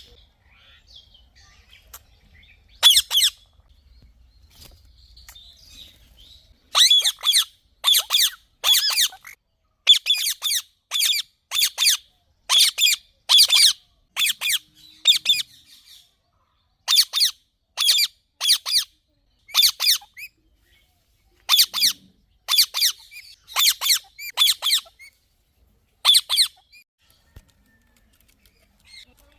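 Indian ringneck parakeet squawking: loud, harsh, short calls repeated in quick runs of several at a time, with brief pauses between runs.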